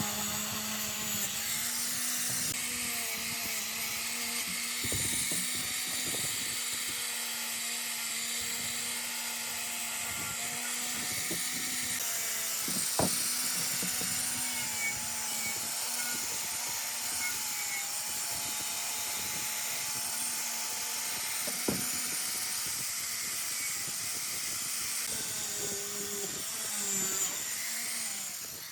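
A power tool running steadily: a motor hum with a high hiss over it and small shifts in pitch. Two sharp clicks come, one near the middle and one about three quarters of the way through.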